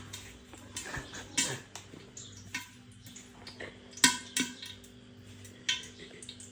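Metal cookware being handled: a pot and utensils giving irregular clinks and knocks, the loudest about four seconds in, over a faint steady hum.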